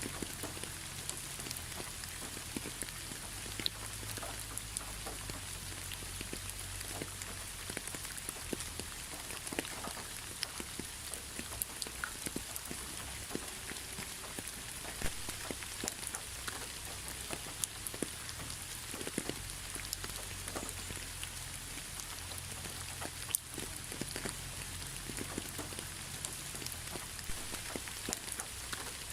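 Steady rain: an even hiss of rainfall with many separate drops ticking sharply on a surface, spread irregularly throughout.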